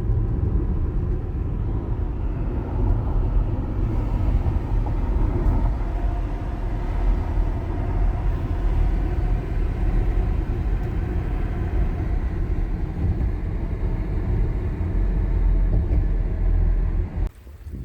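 Steady low rumble of a car driving, engine and road noise together. It cuts off suddenly near the end.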